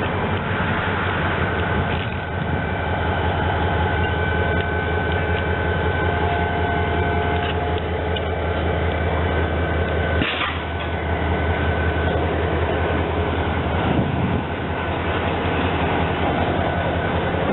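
Train running with a steady low rumble, a few faint whining tones over it, and a short sharp sound about ten seconds in.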